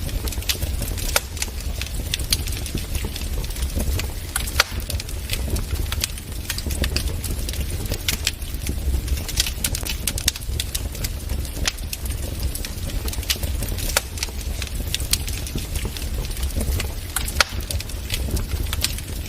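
Wood fire crackling in a fireplace: irregular sharp pops and snaps over a steady low rumble of the flames, with a couple of louder pops about four and a half seconds in and near the end.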